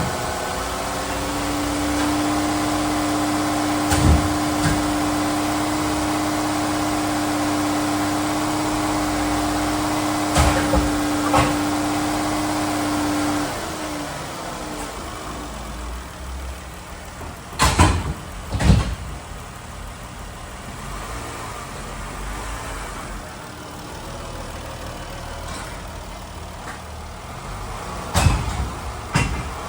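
A 2013 Chrysler 200's 3.6-litre Pentastar V6 on a run test, running with a steady, high-held pitch that glides down about halfway through. After that the sound is quieter and rougher, broken by several loud clunks.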